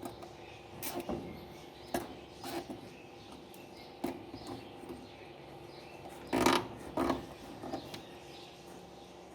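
Scattered clicks, knocks and handling noises of hand work on a washing machine's motor wiring and cable ties, with a short, louder rustle about six and a half seconds in and another just after seven seconds.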